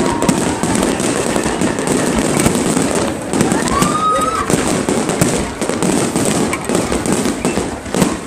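Fireworks display: a dense, continuous crackle of many small pops and bangs, with a short whistle about four seconds in.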